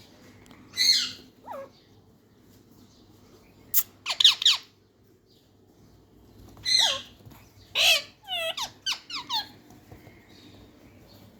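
Parrot giving shrill squawks and squeaky calls in several short bursts, with a quicker run of calls in the second half.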